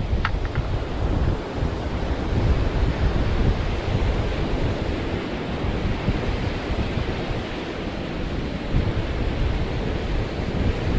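Wind buffeting the microphone over steady ocean surf washing on the beach, with a few short clicks right at the start.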